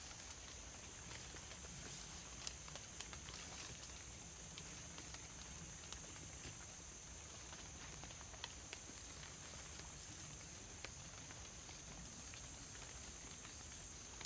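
Forest ambience after rain: a steady high-pitched drone of insects, with scattered light ticks and taps.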